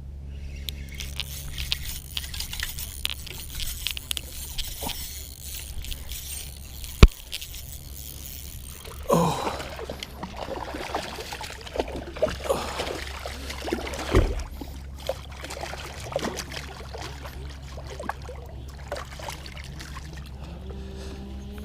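Water splashing and trickling close by, with a single loud, sharp knock about seven seconds in and heavier splashing from about nine seconds on.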